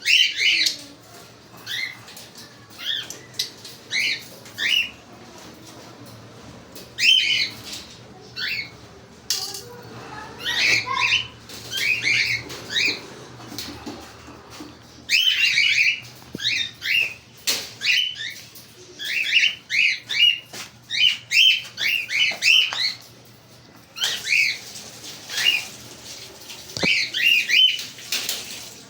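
Small pet parrots chirping and squawking in short, rapid calls, some in quick runs, with a few sharp clicks in between.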